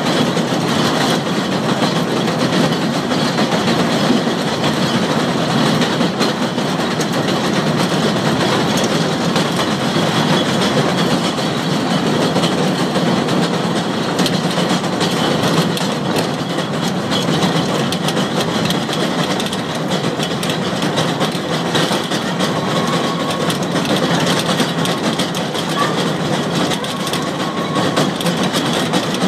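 Electric rack-railway train running steadily over track with a centre rack rail: continuous rolling and running-gear noise with a faint high whine. Near the end a thin tone comes and goes.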